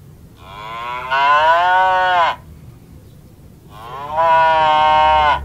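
Cow mooing twice, two long moos of about two seconds each, each dropping in pitch at its end.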